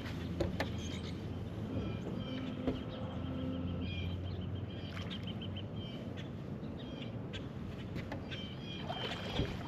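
Birds chirping and singing, with a quick trill of short notes about halfway through, over a steady low rumble.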